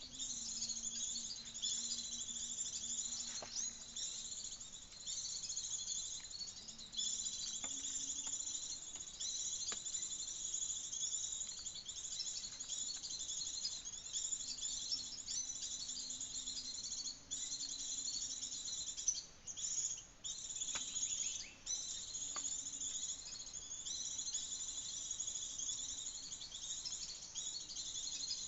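Continuous dense, high-pitched chirping and trilling of small birds mixed with insect calls, with a faint wavering low hum underneath and a few soft clicks.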